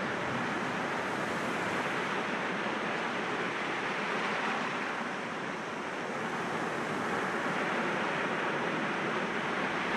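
Sea waves breaking against rocks: a continuous wash of surf that eases slightly about five seconds in and then swells again.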